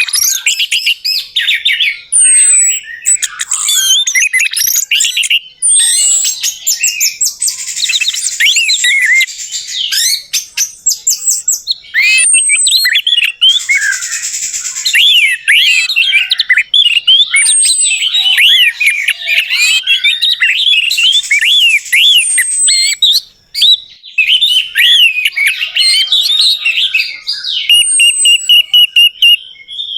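Orange-headed thrush (anis merah) singing a dense, varied song of rapid chirps, trills and whistled phrases. A short, high, downward-sweeping note comes back every few seconds, and near the end the song breaks into a quick run of evenly repeated notes.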